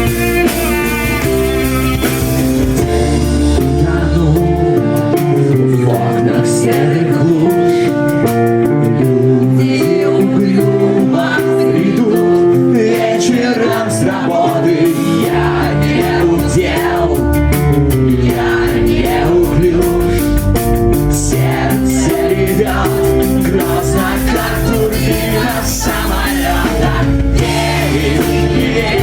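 Rock band playing a song live with a singer. The bass and drums drop out for about ten seconds early on, leaving a lighter passage, then come back in at full band.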